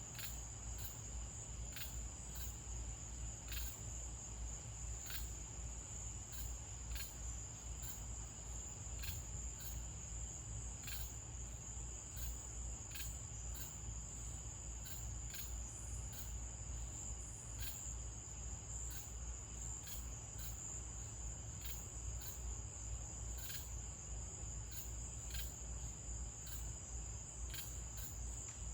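Crickets trilling steadily in the dark, one unbroken high-pitched chorus, with irregular sharp ticks about once or twice a second over a low steady hum.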